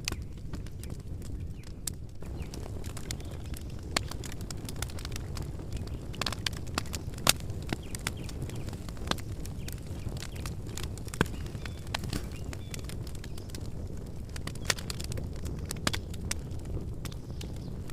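Wood campfire burning, crackling with frequent irregular sharp pops over a steady low rumble of the flames; a couple of louder pops stand out about seven and eleven seconds in.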